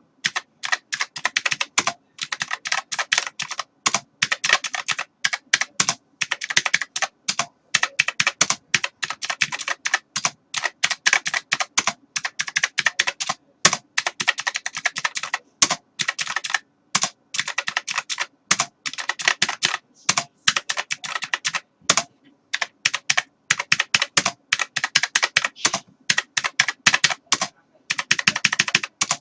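Computer keyboard typing: rapid runs of key clicks in bursts, broken by short pauses.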